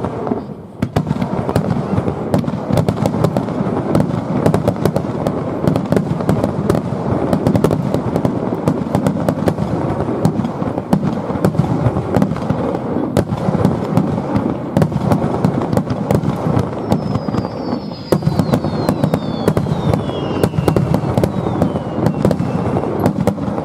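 A fireworks display: a dense, continuous barrage of shell bursts and crackling, one bang on top of another. Late on, several whistles glide down in pitch over the din.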